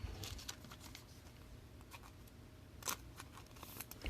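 Faint handling of trading cards: light clicks and rustles, with a sharper click about three seconds in and another near the end.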